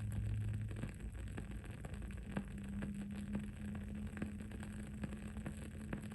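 The wooden wick of a burning candle crackling, with small irregular pops and clicks. Under it runs a low steady hum of background noise.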